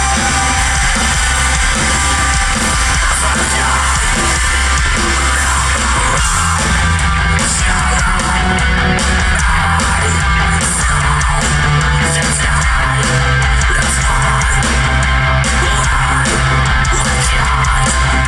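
Live metalcore band playing loud: distorted electric guitars, bass and drums, with yelled vocals, recorded from the crowd.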